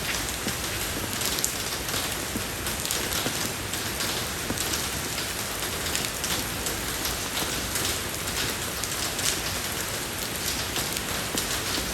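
Steady rain falling on a road surface: an even hiss with many small drop patters scattered through it.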